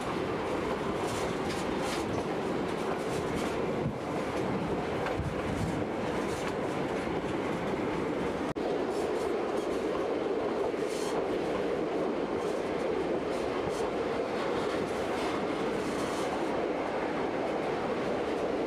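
Narrow-gauge White Pass & Yukon Route train running along the track, heard from aboard: a steady rumble of wheels on rails with faint scattered clicks.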